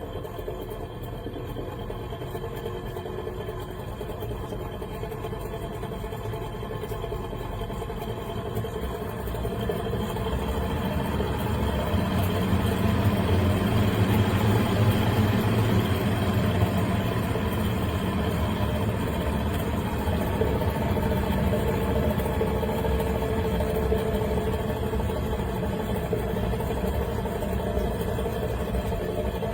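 A steady mechanical running noise with a low hum, growing louder over the first dozen seconds and then holding steady.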